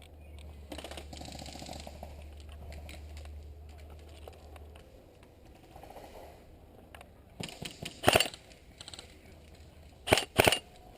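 Airsoft guns firing in short bursts, with a softer rapid rattle about a second in and louder bursts about three seconds before the end and twice near the end.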